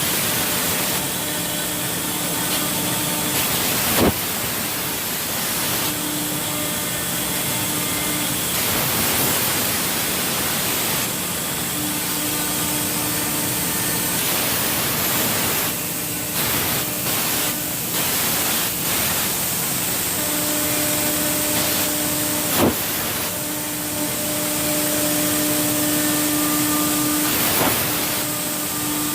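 CNC machine running and cutting, a steady hiss with a hum that comes and goes in stretches as the machine moves, and a couple of sharp clicks.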